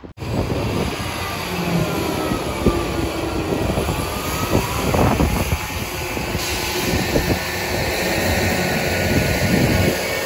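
Rail vehicle passing close by: a steady rushing roar with faint whining tones that slowly shift in pitch.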